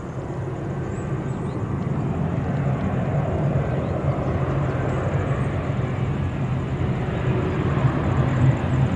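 Jet airliner's engines heard from the ground as a steady, deep noise that grows gradually louder as the plane comes nearer.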